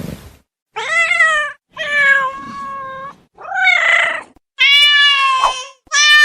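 Ocelot meowing: a series of about five loud, drawn-out meow calls, each around a second long with short gaps between, the pitch arching up and then falling away at the end of each call.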